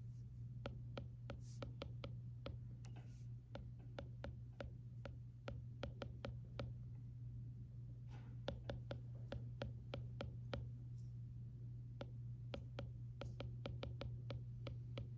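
Stylus tapping and writing on an iPad screen: irregular light clicks, several a second and some in quick runs, over a steady low background hum.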